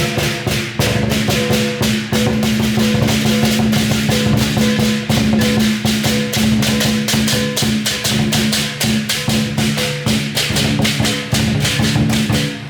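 Chinese lion dance percussion ensemble playing: drum and clashing cymbals in a fast, steady beat of about four to five strikes a second, over sustained ringing metal tones.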